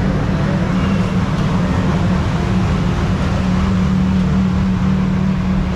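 Train running with a steady low rumble and a constant low hum.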